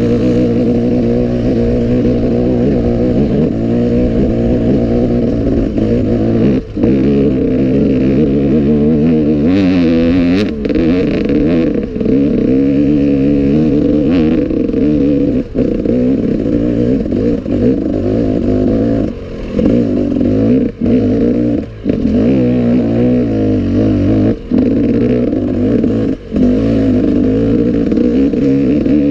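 Enduro dirt bike engine running under constantly changing throttle as it rides off-road, its revs rising and falling, with several brief drops where the throttle is shut off.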